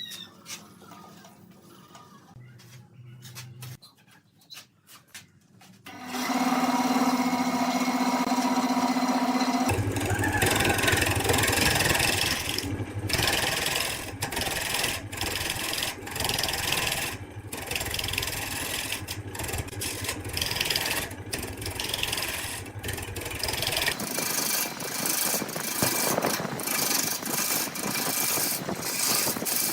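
Workshop machinery: after a quiet start, a steady motor hum comes in about six seconds in, then gives way to a harsh scraping, grinding noise that cuts off and resumes abruptly many times, typical of a tool cutting wood on a running lathe.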